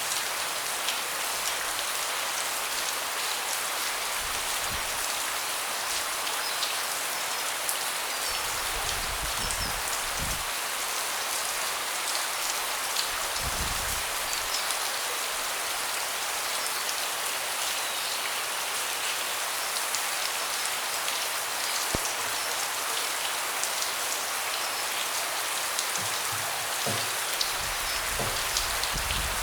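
Steady rain falling on a deck, a dense patter of drops with many small individual ticks. A few brief low rumbles come and go, about a third of the way in and again near the end.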